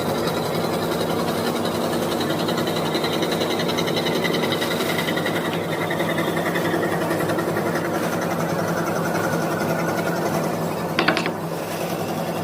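Scroll saw running steadily, its blade stroking rapidly up and down as it cuts out letters in a wooden board, with a faint high whine that slowly falls. A brief sharp rattle about eleven seconds in.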